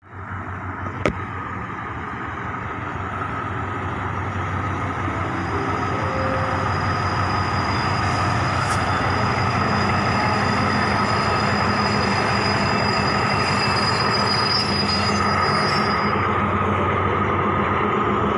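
Diesel-hauled passenger train passing close by: engine hum and the rumble of wheels on rails grow louder over the first ten seconds, then hold steady as the carriages go by. A thin high wheel squeal runs through the middle. There is one sharp click about a second in.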